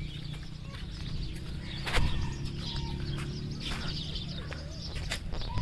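Birds chirping and calling in short, scattered notes, with a sharp click about two seconds in.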